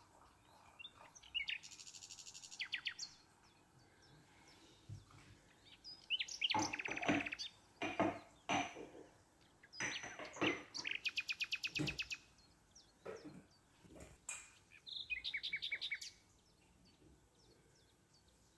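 A bird singing in several quick rapid trills of high chirps, with a couple of light knocks about two-thirds of the way through.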